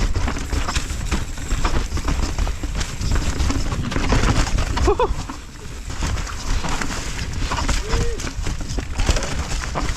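Mountain bike rolling down a dirt and rock trail: tyre noise, chain and frame rattle with constant clicks and knocks, and wind rumbling on the helmet camera's mic. Two brief squeaks, one about halfway and one near the end.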